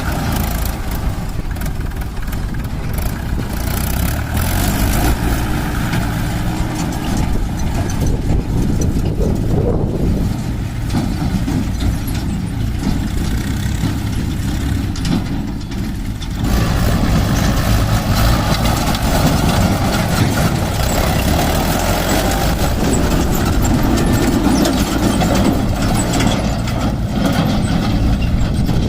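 Diesel engines of a JCB 3DX backhoe loader and a tractor running steadily during mud loading work; the sound grows louder a little over halfway through.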